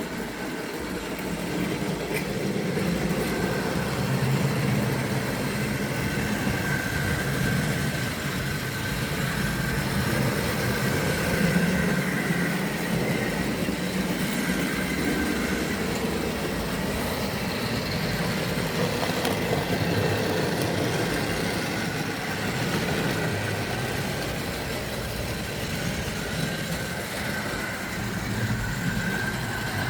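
Tri-ang OO-gauge model train running on its track: the locomotive's small electric motor whirs steadily with a thin whine over a low hum, while the wheels roll along the rails.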